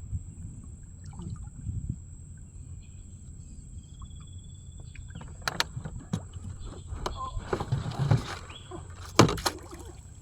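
Knocks, clatter and handling noise while a hooked fish is being landed by hand. Low rumbling fills the first half, then a run of sharp knocks begins about halfway through, the loudest about nine seconds in.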